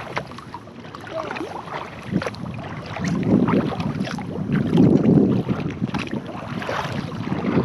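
Wind gusting against the microphone on a kayak at sea, with water lapping and splashing against the hull; the gusts swell in the second half.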